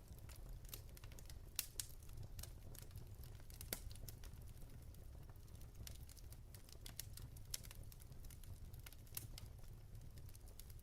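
Quiet crackling wood fire in a fireplace: irregular small pops and snaps from burning logs, a few sharper than the rest, over a low steady rumble.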